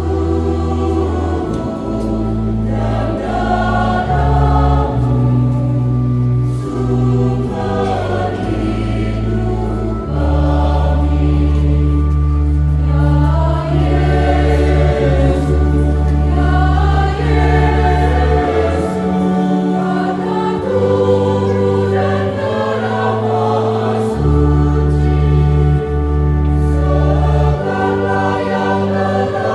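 Church choir singing a hymn in several parts over sustained low accompaniment chords that shift every few seconds.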